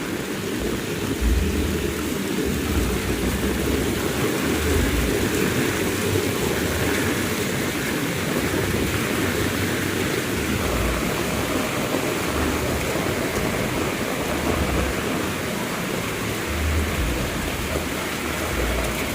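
Heavy rain falling steadily, with irregular low rumbles every few seconds.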